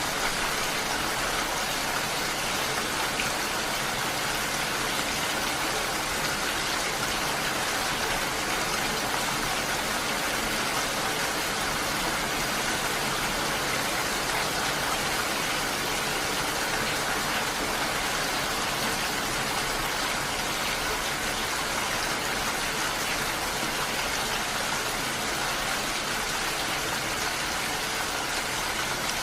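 Steady rain falling, an even hiss of many drops with no distinct events and no let-up.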